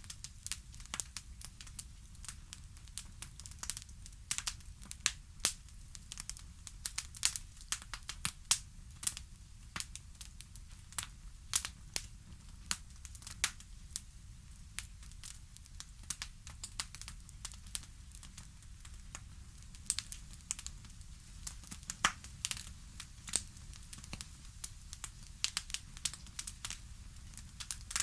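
Fireplace fire crackling: irregular sharp snaps and pops, some louder than others, over a steady low rumble.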